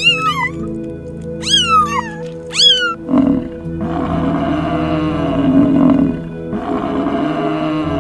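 Three short falling meow-like cries, then from about three seconds in a lion roaring and growling, rough and loud with a short break near the end, over steady background music.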